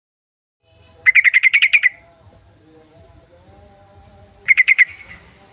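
Yellow-vented bulbul (trucukan) calling: a fast chattering run of about nine sharp notes about a second in, then a shorter run of four notes near the end.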